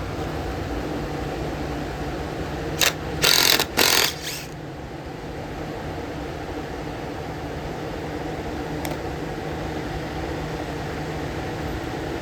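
A steady mechanical hum, with a cluster of four short, loud bursts of noise about three to four seconds in.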